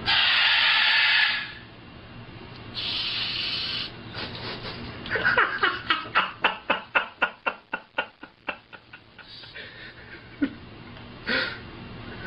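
Pet parrot vocalising: two harsh hissing squawks, then a fast run of short laugh-like notes, about four a second, that fades out, and a couple of brief calls near the end.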